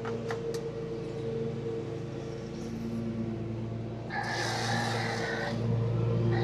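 A motor running with a steady hum, joined by a burst of hissing noise about four seconds in and another near the end.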